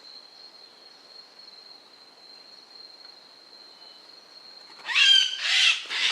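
A faint, steady high-pitched whine, then about five seconds in a bird breaks into loud, harsh, screechy calls, several in quick succession.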